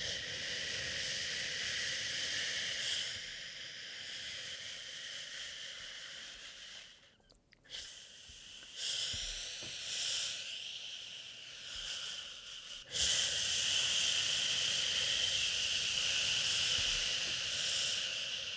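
A person shushing a baby: long drawn-out "shhh" hisses, broken by short pauses for breath about seven seconds in and again just before thirteen seconds, with the last stretch the loudest.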